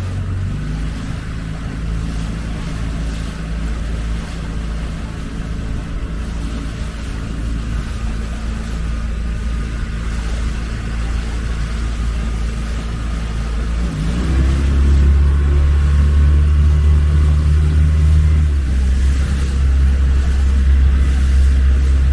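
Small motorboat's engine running steadily, then opened up about 14 seconds in: the pitch rises and it runs louder to the end.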